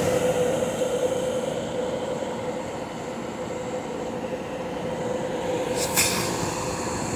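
Portable air conditioner running at full power: a steady rush of fan noise with a steady hum. There is a brief click about six seconds in.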